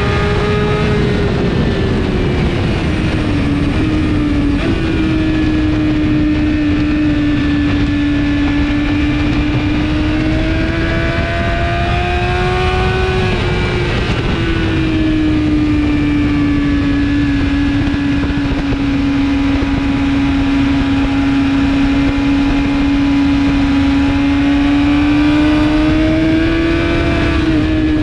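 2017 BMW S1000RR's inline-four engine with an Akrapovic exhaust, running hard at high revs. Its pitch sinks and climbs slowly through corners and straights, and drops sharply about four seconds in and again at about fourteen seconds, over a steady loud rush of wind noise.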